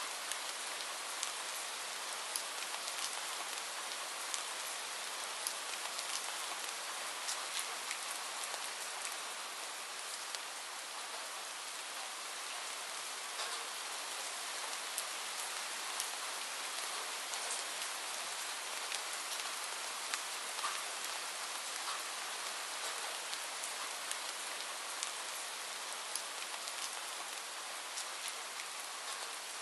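Steady rain: an even hiss of falling rain with frequent separate drops ticking sharply through it.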